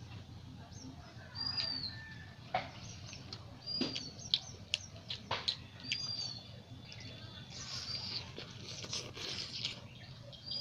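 Close-up eating sounds: wet clicks, smacks and chewing noises, with a denser stretch of chewing about three-quarters of the way through. A bird repeats a short chirp that rises and falls about every two seconds, over a steady low hum.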